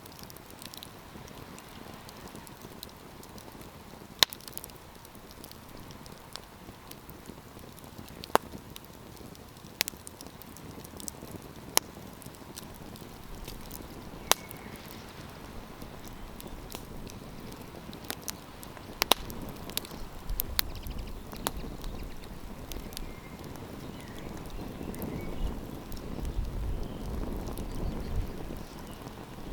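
Wood campfire crackling: sharp, irregular pops and snaps over a steady low hiss of burning wood. A low rumble swells in the second half.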